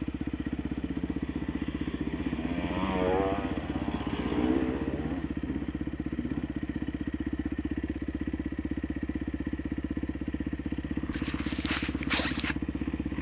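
Dirt bike engine idling steadily with an even, fast pulse. A few seconds in a wavering higher sound rises over it, and near the end there is a short burst of crackling noise.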